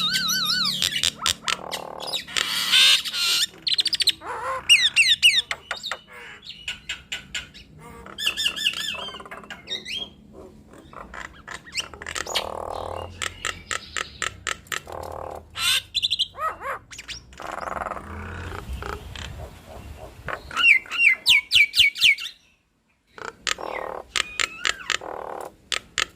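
Nias hill mynas calling back and forth in a varied run of whistles that glide and warble, rapid clicking notes and harsh squawks. The calls break off briefly to silence a few seconds before the end.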